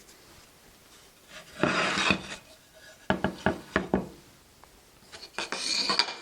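Wooden jig being handled: a scrape of wood sliding on wood, then a quick run of about five sharp knocks, then another scrape near the end.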